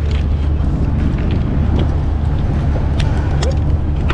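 Ship's engine running with a steady low drone while the vessel is under way, with scattered light clicks over it.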